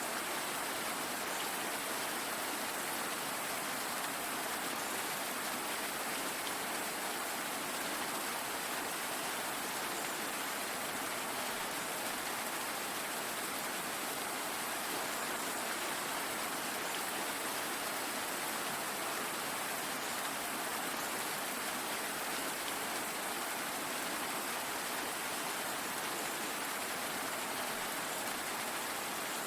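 Steady rainfall, an even hiss of many drops with no let-up or change.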